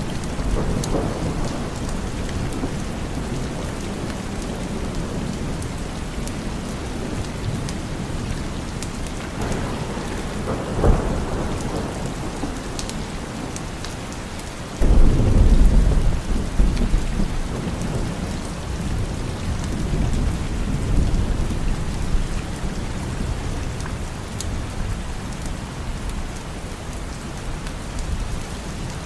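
Steady rain with thunder: a short crack about eleven seconds in, then a sudden loud thunderclap about fifteen seconds in that rumbles on for several seconds and swells again a few seconds later.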